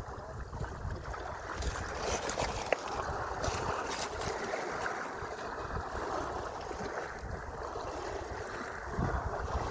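Sea water washing and splashing steadily, with a few sharper splashes a couple of seconds in and wind buffeting the microphone near the end.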